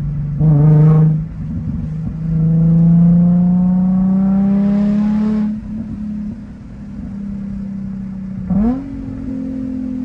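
Nissan 350Z Nismo's V6 through a Tomei single-exit axle-back exhaust. A short, loud throttle blip comes about half a second in. From about two seconds in the engine pulls for three seconds with its pitch rising steadily, then the throttle lifts, and another quick blip comes near the end.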